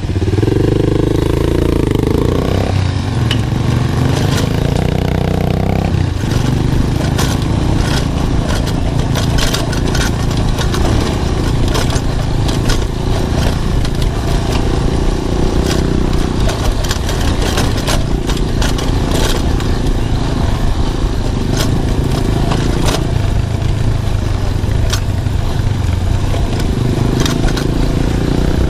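Romet ADV 150 single-cylinder motorcycle engine pulling away and revving up over the first few seconds, dropping in pitch about six seconds in with a gear change, then running steadily under load. Frequent short knocks and rattles as the bike jolts along a rutted dirt track.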